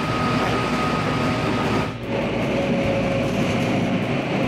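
Running noise inside a moving electric commuter train: steady rumble of wheels on the rails with a constant tone above it. About two seconds in, the sound dips briefly and the tone comes back at a lower pitch.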